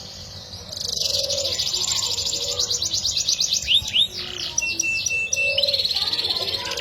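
Yorkshire-cross canary singing. About a second in it launches into a fast trilling song of rapid repeated high notes, broken by short sliding whistles and one brief held note.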